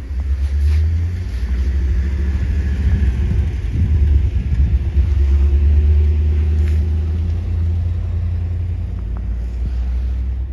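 Motor vehicle engine running close by, a loud steady low rumble that swells slightly midway and holds.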